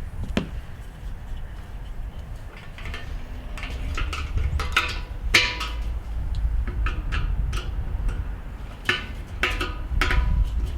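Metallic clinks and taps as the top handle and its screws and bolts are fitted to the steel lid of a Weber kettle grill. Several strikes leave a short ringing tone from the steel shell.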